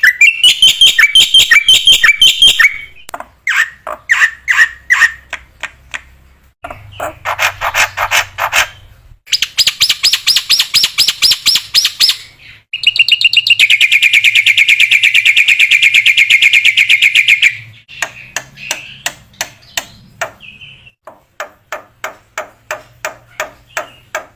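Black-winged myna (jalak putih) singing loudly: bursts of rapid repeated notes and fast trills, the longest trill lasting about five seconds, broken by short pauses and stretches of slower single notes.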